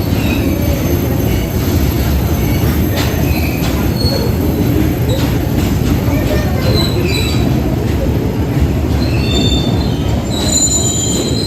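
A long coal freight train rolling slowly past with a steady heavy rumble. Scattered clanks and short, high wheel squeals come more often toward the end.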